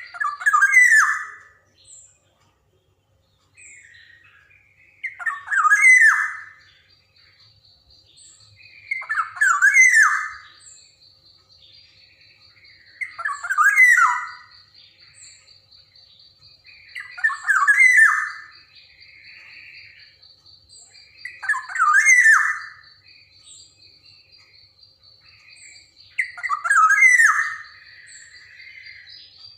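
Black-naped oriole calling about once every four seconds, seven calls in all. Behind the calls a steady high trill starts about four seconds in.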